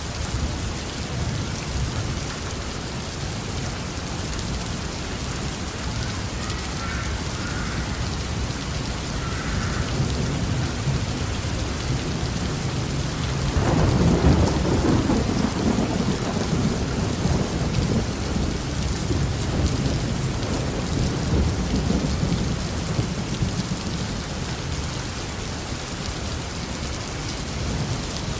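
Steady heavy rain falling, with a clap of thunder about halfway through that starts suddenly and rolls away as a long, deep rumble.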